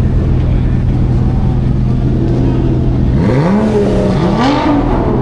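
Car engine idling steadily, then revved twice in quick succession, the pitch rising, holding briefly, dipping and rising again, about three seconds in.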